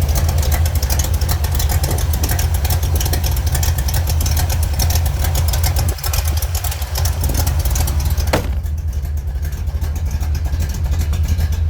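Rebuilt 350 cubic inch small-block V8 of a 1970 Chevrolet Corvette idling steadily, with a deep, even low rumble. A single sharp click comes about eight seconds in, after which the sound turns duller.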